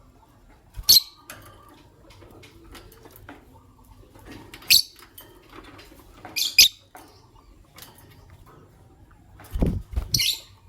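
Lovebirds giving short, sharp high chirps: one about a second in, two near the middle and one near the end. Faint small clicks and scuffs come in between, and a low thump lands just before the last chirp.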